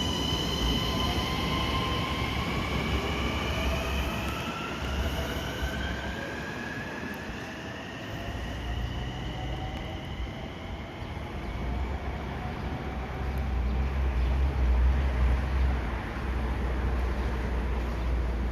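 Electric commuter train accelerating, its traction motors giving a whine that climbs steadily in pitch, over the rumble of the train on the rails. The rumble grows deeper and louder in the second half.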